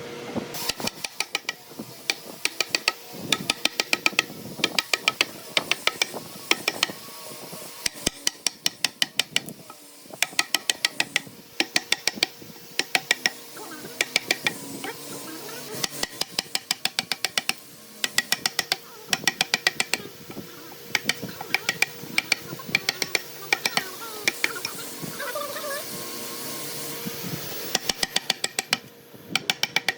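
Quick runs of sharp knocks, several a second, separated by short pauses, over a steady low background hum.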